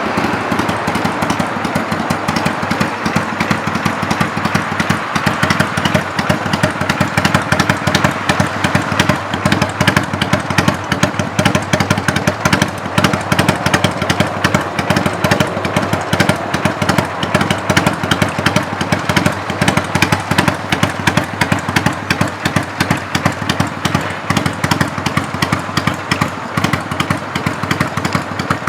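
Kawasaki Vulcan 400's V-twin engine running steadily, its exhaust pulses firing in a fast, even rhythm.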